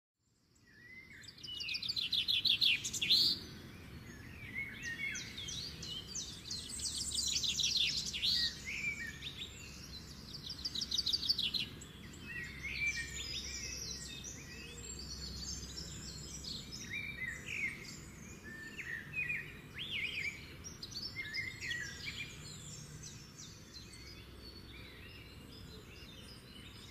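Several birds singing and chirping, with quick trills, loudest and densest in the first dozen seconds and thinning out toward the end.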